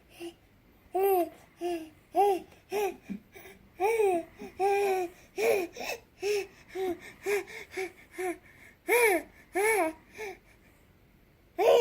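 A nine-month-old baby vocalizing loudly in a long run of short, high, rising-and-falling syllables, about two a second. There is a brief pause near the end, then one more loud cry-like syllable.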